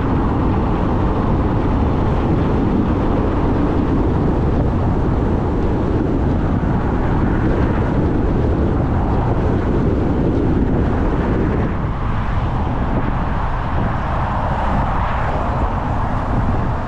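Steady road and engine noise of a vehicle being driven, a constant low rumble with no distinct events.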